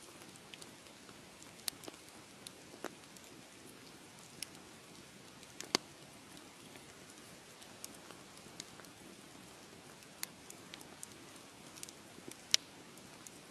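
Wood fire crackling: a steady soft hiss with sharp pops at irregular moments, the two loudest about six seconds in and near the end.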